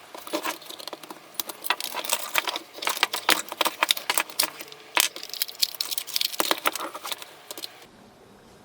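Rapid, irregular clicking and rattling of small hard parts from a dismantled coffee machine being handled and set down, stopping shortly before the end.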